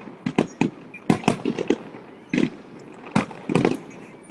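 Fireworks bursting: a rapid run of sharp bangs in quick clusters, a few at a time, with short gaps between them.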